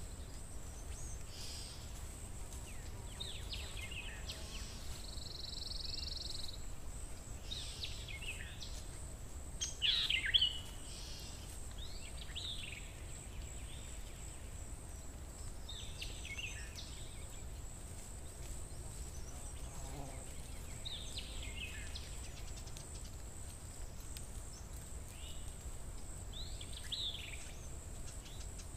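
Small birds chirping every few seconds, short calls that drop in pitch, one louder call about a third of the way in, over a steady low background hum.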